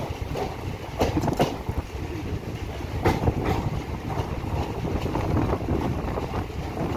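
Passenger train rolling slowly, with a steady low rumble and the wheels clacking over rail joints: a quick run of knocks about a second in and another couple around three seconds in.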